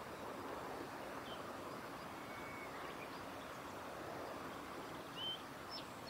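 Steady outdoor background noise with a few faint, short high-pitched calls from small birds, including a briefly held note about two seconds in and a short rising call near the end.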